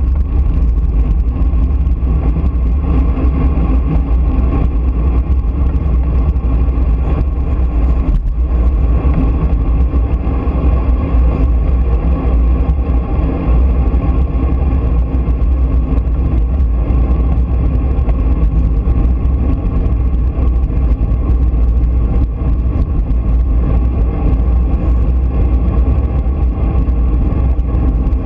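Steady road noise at speed: a constant heavy low rumble with a continuous drone over it, unbroken throughout.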